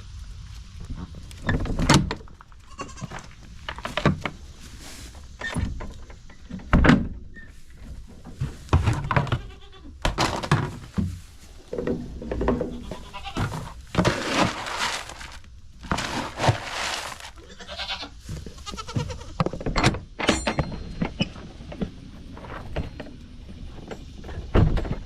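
Goats bleating again and again, with sharp knocks and thuds scattered among the calls.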